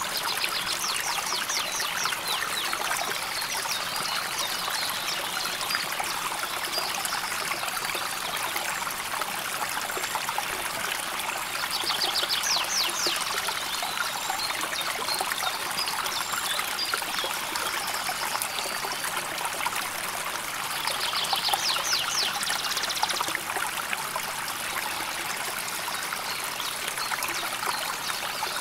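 A shallow river flowing steadily, babbling and trickling over stones. A short, rapid, high trill sounds three times: near the start, about 12 seconds in and about 21 seconds in.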